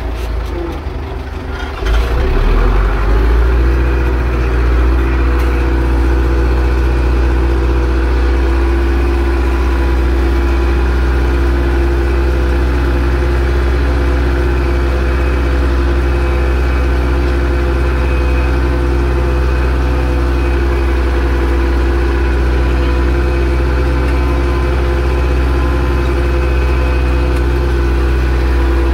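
Zetor 6245 tractor's four-cylinder diesel engine working steadily while pulling a plough; about two seconds in its sound gets louder and rises, then holds an even note.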